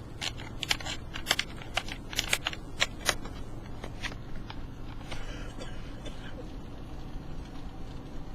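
Steady low road rumble inside a moving pickup truck, with a quick run of irregular sharp ticks and clicks over the first three seconds or so that then thin out.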